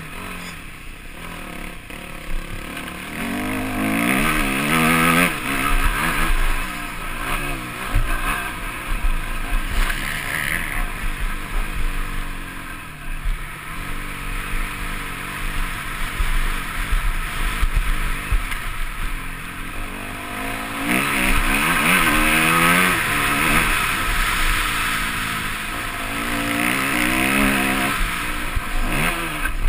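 Yamaha motocross bike's engine revving hard and dropping back again and again as it is ridden around the track, picked up by a camera mounted on the bike or rider, with wind and rattle noise underneath.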